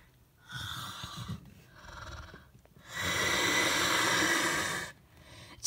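Weird breathy creature noises for a pet Megalania, a giant monitor lizard: two short rasping breaths, then a longer, louder one of about two seconds.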